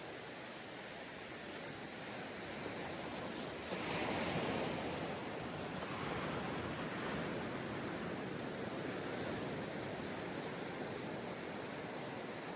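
Sea waves breaking and washing up on a beach, a steady surf hiss with a louder wave crashing about four seconds in, then a long wash that slowly fades.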